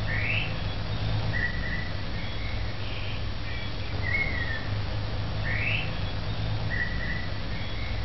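Birdsong of clear whistled notes: a short falling whistle, a rising sweep and a flat note, with the same phrase coming round again about every five and a half seconds. A steady low hum runs underneath.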